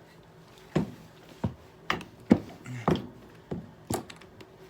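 Hammer blows on a power drill's housing: about seven sharp, separate strikes at an uneven pace of roughly two a second.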